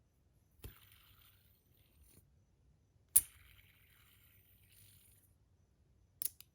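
A metal 3-body cube fidget, a combined clicker, slider and spinner, being worked by hand. Sharp clicks come about a second in, a louder one about three seconds in, and a quick pair near the end. The first two clicks are each followed by a soft whirring hiss lasting a second or two.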